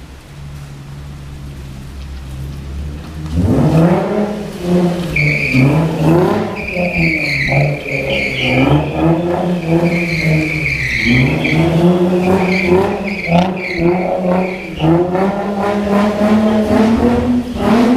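Infiniti G35's 3.5-litre V6 idling, then revved hard about three seconds in. The revs rise and fall repeatedly, with the tyres squealing as the car spins donuts.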